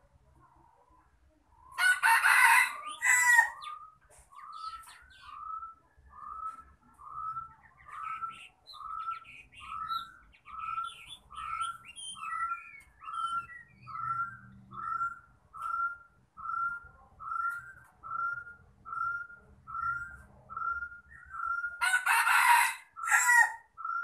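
Caged decoy bird calling: a loud, harsh call about two seconds in and again near the end, and between them a long, even series of short rising-then-falling notes, about one and a half a second.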